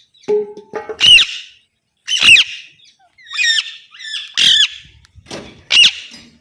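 Pet green parrot giving a series of loud, harsh squawks, about five calls roughly a second apart.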